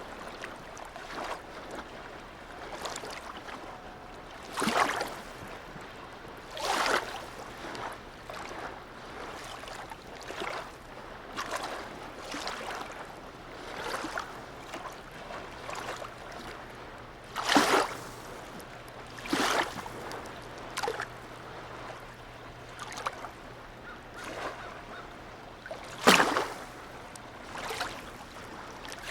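Small waves lapping and splashing at the harbour's edge, a slap of water every second or two, the loudest about 17 and 26 seconds in. A faint steady low hum runs underneath from about six seconds in.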